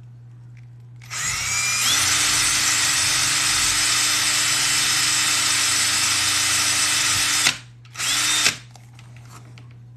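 Small electric drill boring a rivet hole through stiff, glued double-layer leather. It spins up with a rising whine about a second in, runs steadily for about six seconds and stops, then runs again in one short burst.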